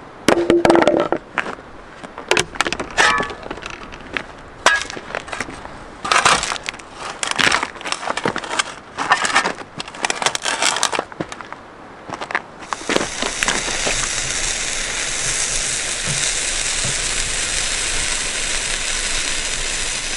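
Digging in stony riverbed gravel: a quick, irregular run of sharp scrapes and clinks of a tool against stones. About two-thirds of the way through, it gives way to the steady sizzling hiss of a burger frying on a hot stone.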